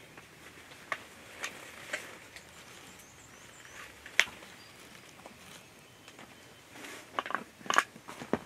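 Irregular footsteps crunching in dry forest leaves. There is a sharper crack about four seconds in and a quick flurry of steps near the end.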